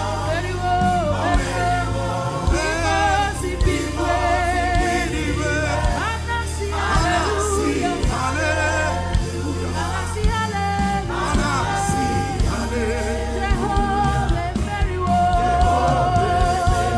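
Gospel worship song: voices singing held, wavering lines over band accompaniment with steady bass notes.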